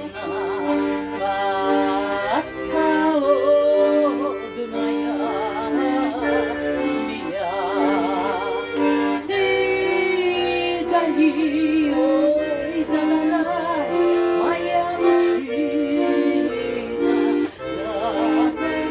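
Bayan (Russian button accordion) playing sustained chords for a Russian folk song, with a voice singing the melody above it with a wide vibrato and sliding between notes.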